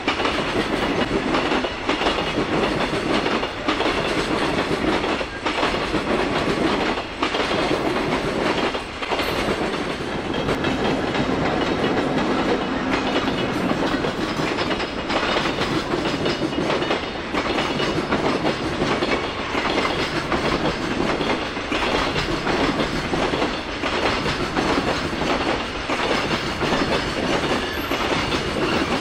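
EF65-hauled freight train of Koki container flat wagons rolling past at speed, a continuous rumble of wheels on rail. A regular clack of wheels over rail joints comes about every two seconds.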